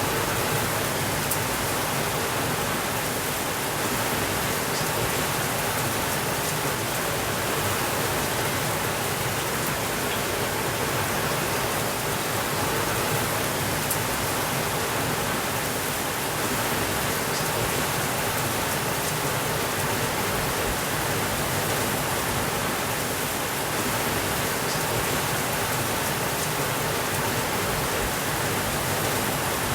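Steady rainfall, an even, unbroken hiss with a few faint scattered ticks of single drops.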